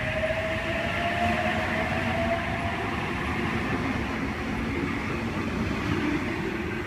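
Sydney Trains H-set 'Oscar' intercity electric train pulling away from the platform: a rising traction-motor whine over the steady rumble of wheels on the rails. The whine fades after the first few seconds.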